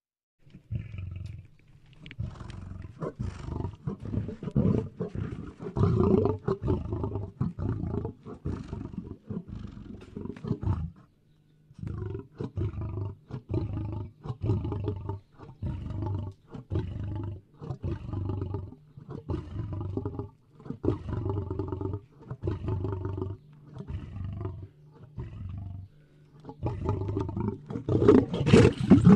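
Lion roaring: a long series of deep roars repeated about once a second, with a short break near the middle, loudest near the end.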